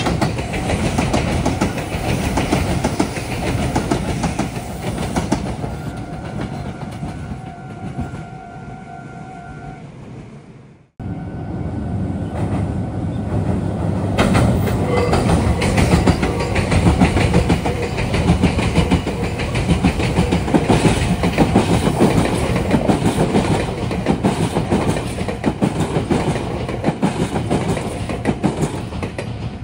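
Meitetsu electric trains passing close by at a railway junction. The first train fades away. The sound then breaks off abruptly about eleven seconds in, and another train is heard passing loudly for most of the rest, easing off near the end.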